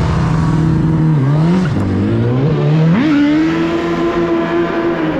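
Suzuki Hayabusa motorcycle engine accelerating hard from a drag-race launch. The pitch climbs at the start, dips and climbs again twice, as with gear shifts, then jumps higher about three seconds in and holds steady at high revs.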